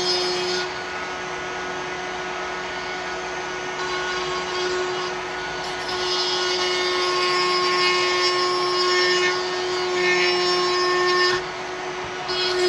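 Electric grinder working wooden knife-handle scales: a steady motor hum under a grinding hiss that swells and eases several times.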